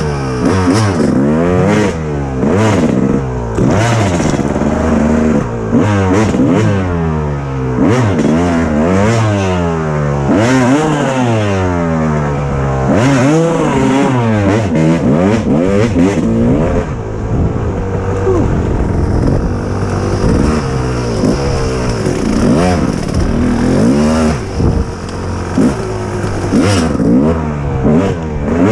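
Kawasaki KX250 two-stroke single-cylinder dirt bike engine, revved up and down again and again while riding, its pitch rising and falling every second or two.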